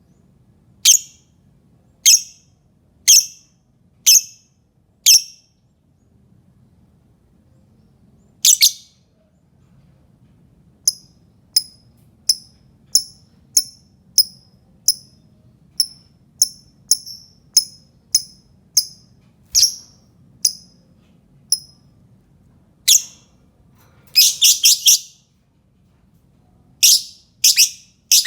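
Lovebird giving sharp, high-pitched chirps: about one a second at first, then a faster run of roughly two a second, and a quick cluster of several calls about three-quarters of the way through. A lure ('pancingan') call of the kind played to set other lovebirds calling.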